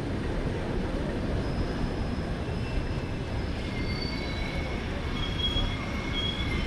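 Railway train running on the rails with a steady low rumble; thin, high wheel squeals join in about halfway through and keep on.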